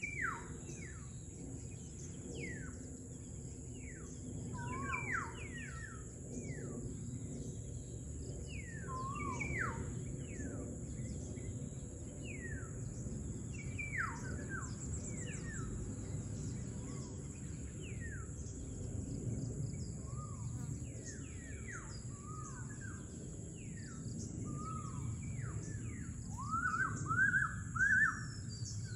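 Several birds calling: repeated short calls that each sweep quickly down in pitch, with a louder run of arched calls near the end. Underneath is a steady low background rumble and a thin, constant high-pitched whine.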